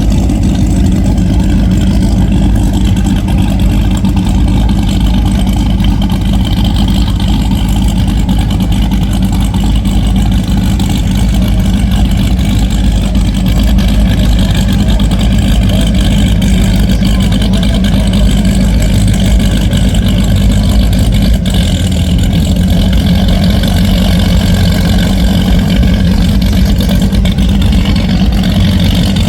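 Power boat engine running loud and steady, holding an even pitch.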